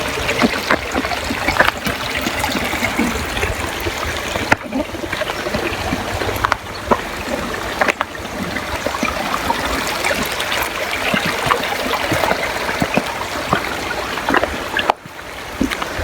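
Creek water trickling and running steadily, with scattered short clicks over it.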